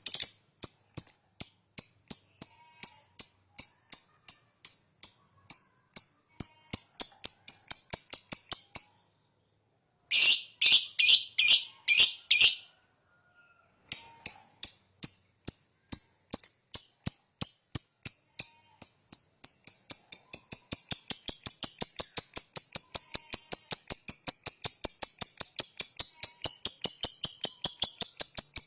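Lovebird giving fast, high-pitched repeated chirps a few a second (the 'ngetik' clicking), broken by two short pauses, then running into a long continuous chattering trill (the long 'ngekek') for the last third.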